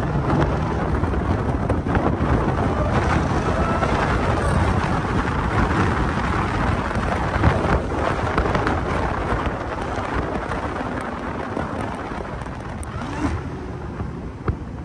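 Jeep Grand Cherokee Trackhawk's supercharged 6.2-litre Hemi V8 pulling hard after a downshift, with supercharger whine over a loud engine rumble, easing off somewhat in the last few seconds.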